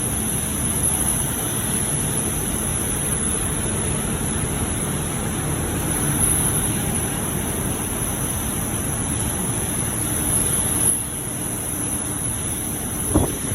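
Heavy rain on an airport apron: a steady rushing noise with a low rumble under it and a constant high whine, broken by a short thump near the end.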